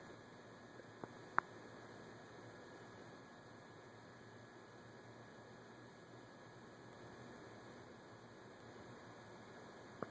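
Quiet room tone with a faint steady hum, broken by two brief clicks about a second in and one more near the end.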